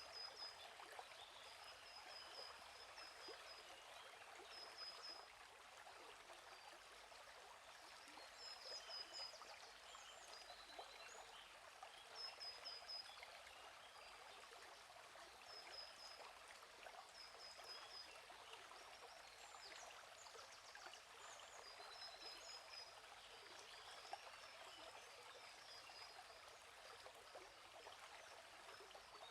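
Soft, steady rush of a gently flowing stream, with a small bird repeating short, high chirping phrases every couple of seconds.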